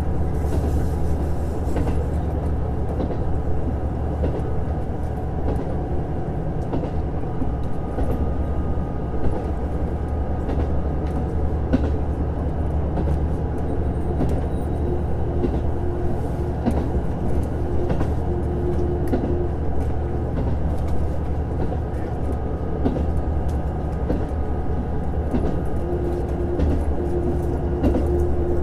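Inside a JR Hokkaido KiHa 150 series diesel railcar under way: the steady drone of its diesel engine and running gear, with scattered sharp clicks from the wheels and track. A faint higher tone comes and goes in the second half.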